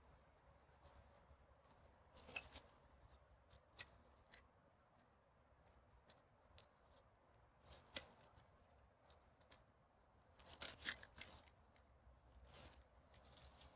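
Faint, scattered crackling and rustling, with a few sharper ticks among them and a busier cluster about two-thirds of the way through.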